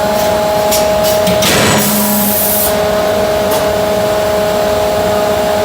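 Hydraulic closed-die forging hammer running with a steady mechanical hum, with one loud noisy burst about a second and a half in, followed by a short hiss.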